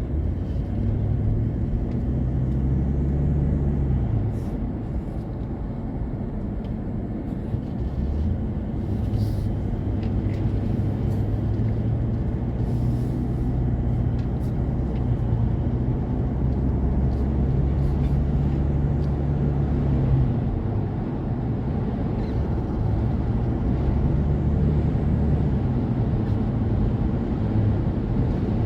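Moving car's steady low road and wind drone, with a deep hum that fades in and out several times.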